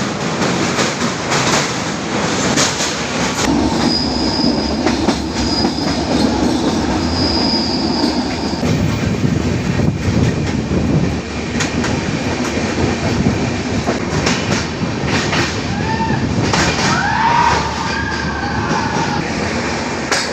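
Passenger train running on the track, a steady rumble with repeated clicks of the wheels over rail joints and brief high wheel squeals now and then.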